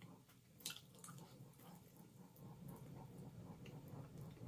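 Faint chewing of a mouthful of chicken wing, with small wet mouth clicks, a sharper one just under a second in, over a low steady hum.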